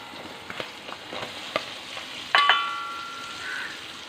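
Garlic-ginger paste frying in hot coconut oil, a steady sizzle, with a metal utensil clinking against the pan several times. The loudest clink comes about two and a half seconds in and leaves a ringing tone for about a second.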